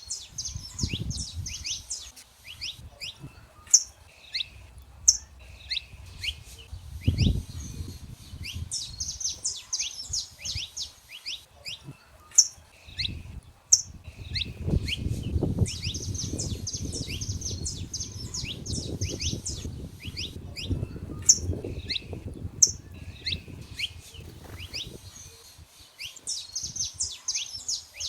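Saffron finches singing: fast runs of sharp chirps, with loud single high notes every second or two, over a low rumbling noise that swells in the middle.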